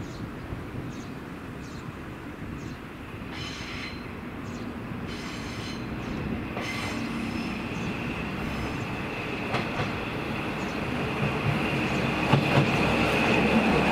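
Single-car diesel railcar approaching on curved track, its engine and running noise growing steadily louder. A steady high wheel squeal builds from about halfway as it takes the curve, with wheel clicks over the rail joints near the end.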